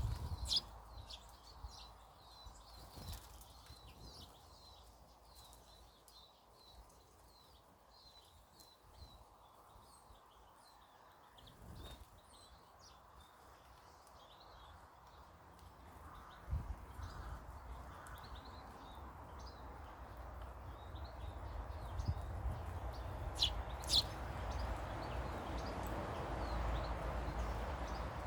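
Small garden birds chirping, short high calls repeated many times. Over the second half a low rumble and hiss grows steadily louder, and two sharp taps sound close together near the end.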